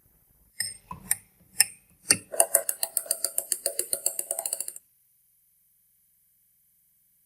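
Metal parts of a restored manual meat grinder clicking: a few separate clicks, then a fast run of ringing ticks, about eight a second, that stops abruptly.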